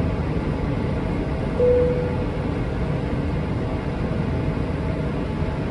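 Steady low cabin rumble inside a Boeing 777-300ER on the ground before takeoff, with a short single steady tone about a second and a half in.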